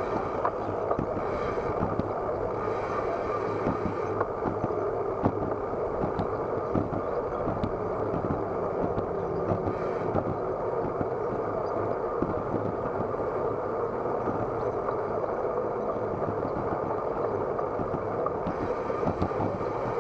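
Muffled, steady rush of wind and road noise from a bicycle on the move, picked up by an action camera mounted on the bike.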